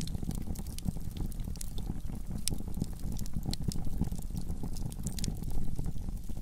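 Wood fire in a fireplace crackling, with frequent sharp pops over a steady low rushing noise.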